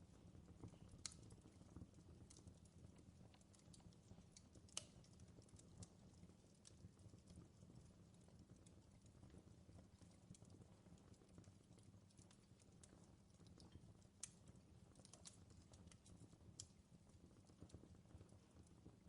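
Faint crackling fireplace: a low steady rumble of the fire with scattered sharp pops and snaps, the loudest about a second in and near five seconds.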